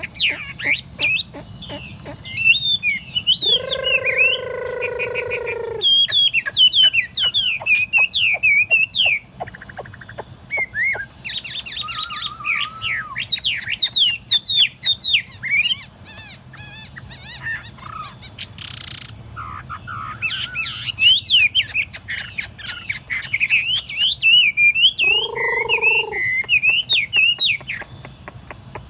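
Chinese hwamei singing a long, varied song of rapid, fluttering whistled phrases, broken twice by a long, nasal held note.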